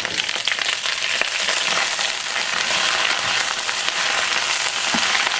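Choy sum greens sizzling steadily in hot garlic oil in a wok, stir-fried over high heat and tossed with chopsticks.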